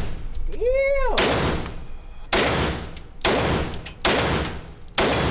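Five handgun shots fired one after another, about a second apart, each with a short echoing tail.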